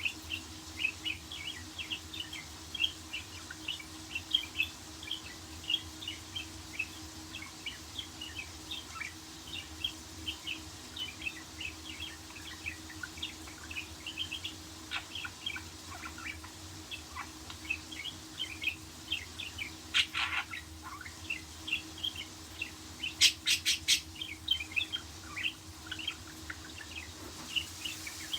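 Budgerigars chirping and chattering in a quick, continuous run of short high calls, with a louder burst about twenty seconds in and a few sharp clicks shortly after.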